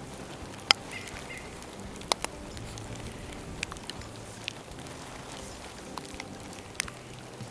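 Bonfire of dry bamboo crackling over a steady hiss, with sharp, irregular pops, the loudest about a second in and again about two seconds in.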